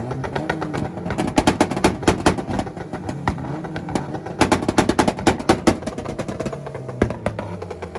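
Two tuned cars held on two-step launch-control rev limiters, their exhausts firing rapid strings of sharp pops and bangs while the engine revs rise and fall.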